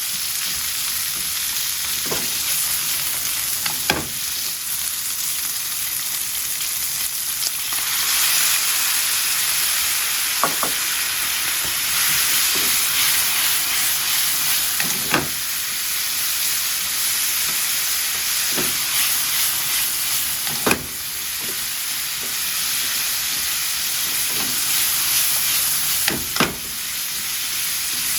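Ingredients sizzling as they are stir-fried in oil in a frying pan, with a dozen or so sharp clicks of a utensil against the pan. The sizzle grows louder about eight seconds in.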